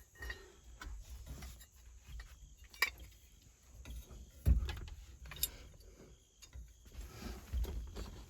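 Scattered light clicks and knocks of parts and tools being handled while working on a steering column, with one louder thump about four and a half seconds in.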